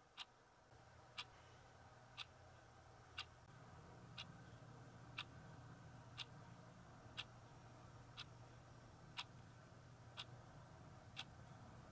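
A clock ticking faintly, once a second, over a low steady hum.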